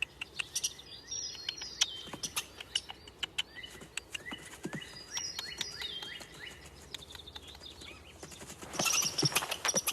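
Birds chirping over and over in short falling calls, with scattered sharp clicks. Near the end a louder, noisier animal sound starts.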